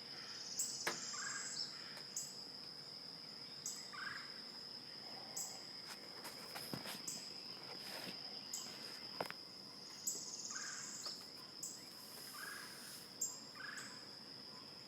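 Insects droning on one steady high note, with a higher chirping pulse repeating every second or two. Short bird calls come in now and then, and a few sharp knocks are heard.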